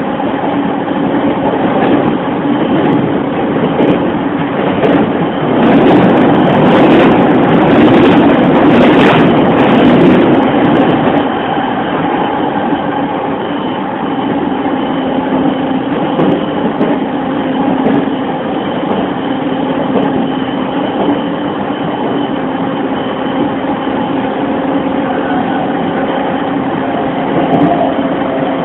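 JR East E231-1000 series electric multiple unit heard from inside the car while running at speed: steady wheel-on-rail rumble with a few constant hums from the motors and Mitsubishi VVVF inverter. The rumble gets louder and rougher for several seconds around a third of the way in, then settles back.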